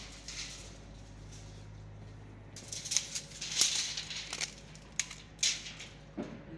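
Handling noise: a series of short rustles, scuffs and clicks starting about two and a half seconds in, over a low steady hum.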